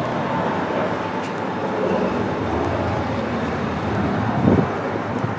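Road traffic: a motor vehicle going by, a steady rumble with a short louder swell about four and a half seconds in.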